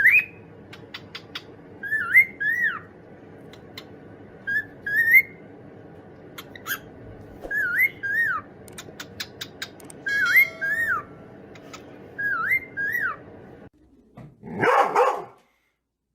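A dog whining in short, high, rising-and-falling squeals, in groups of two or three every couple of seconds. A louder, rougher noise comes near the end.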